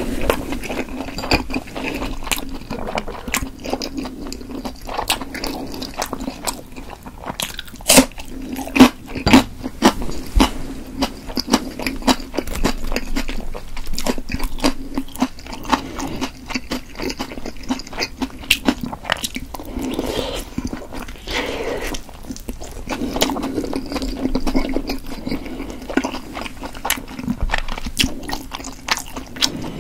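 Close-up chewing and biting of chewy steamed potato dumplings: wet, sticky mouth sounds and smacks, with a few sharp clicks as wooden chopsticks pick dumplings from a metal steamer basket.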